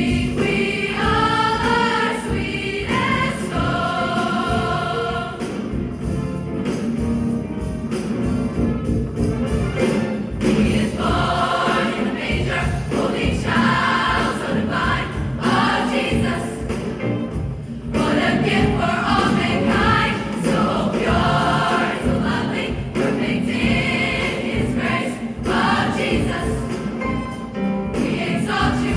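School choir singing a Christmas song with instrumental accompaniment.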